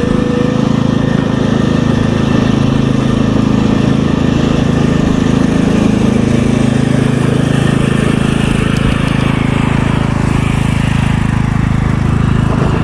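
Tractor engine running steadily, with only small shifts in pitch.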